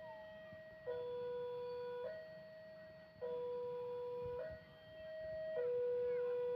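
Electronic two-tone warning alarm sounding steadily, switching back and forth between a higher and a lower tone a little over once a second.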